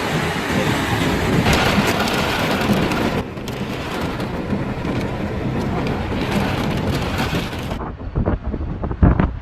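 Storm noise: a dense, steady rush of heavy rain. Near the end it gives way to wind buffeting the microphone in rough low gusts.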